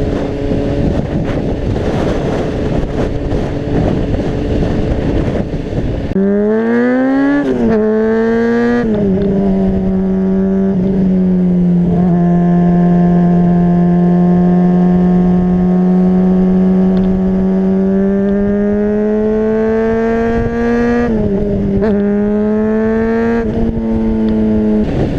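Honda CBR600RR inline-four engine picking up speed: the revs climb steeply twice, with a brief dip between, about six to nine seconds in, then hold a steady high pitch. Loud wind rush on the microphone covers the first six seconds and comes back near the end.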